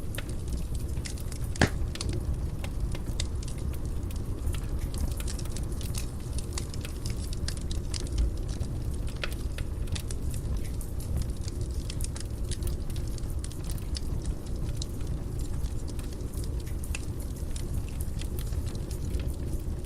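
Wood fire burning in a fireplace: a steady low rumble of flames with frequent crackles and small pops, and a sharper pop about a second and a half in.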